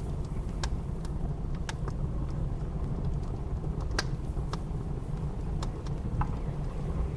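Wood fire crackling, with sharp pops about once a second, over a steady low rumble of blizzard wind.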